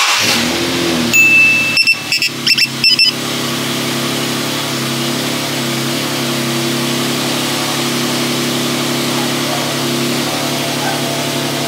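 Infiniti G37's 3.7-litre VQ37 V6, fitted with long-tube intakes, starting up and settling into a steady idle. Several short high beeps sound in the first three seconds.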